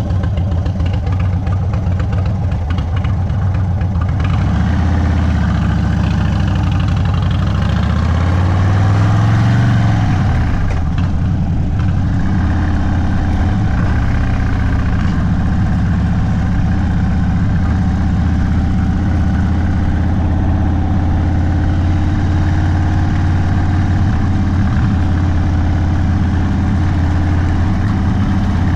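Indian Sport Chief's V-twin running at low speed through a Sawicki Speed aftermarket exhaust. The engine pitch rises and falls once, about eight to ten seconds in, as it picks up speed and then eases back.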